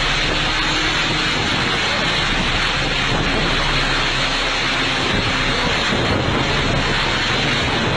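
Strong storm wind with heavy rain: a loud, steady rush of noise, the wind buffeting the microphone.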